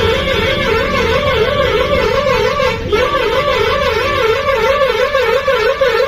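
A vehicle's warbling horn held on, its tone swinging up and down about three times a second, with one short break about halfway through.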